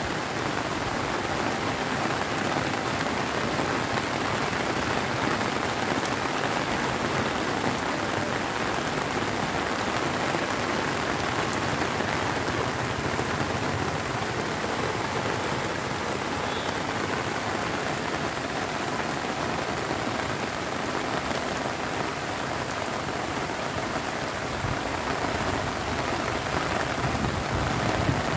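Steady rain falling on a flat concrete rooftop, an even hiss that holds without let-up.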